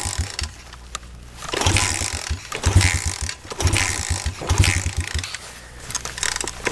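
Cold pitbike engine revved in about four short, uneven bursts to keep it running, sputtering between them: it will not idle until warm.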